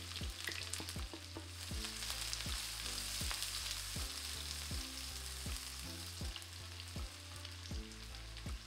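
Sliced shallots and minced garlic sizzling steadily in hot oil in a very hot wok as they are stirred.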